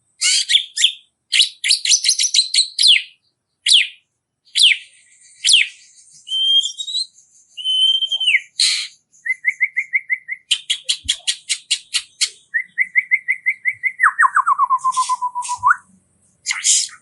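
Small songbird song used as a masteran for training kacer and murai batu: bursts of sharp, rapid notes, short whistled trills, a fast run of repeated notes about halfway through and a trill that drops in pitch near the end.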